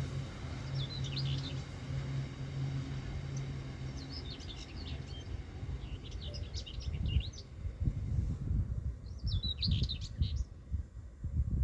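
Small birds chirping in short bursts of quick squeaky notes, about five phrases. Under them, a low steady hum dies away by about halfway. After that come low gusty rumbles, which are the loudest sound.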